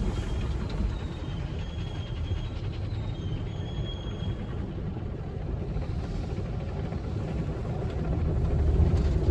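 Car wash tunnel machinery heard from inside the car's cabin: a steady low rumble, with a faint high whine between about one and four seconds in.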